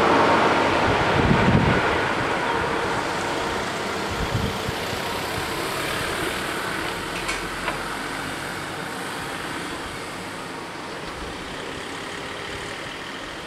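Regional train running away from a level crossing, its rumble fading steadily as it recedes.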